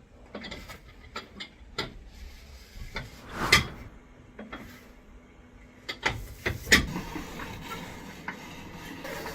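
Irregular clicks and knocks of hard objects being handled and set down, with two louder knocks about three and a half and nearly seven seconds in.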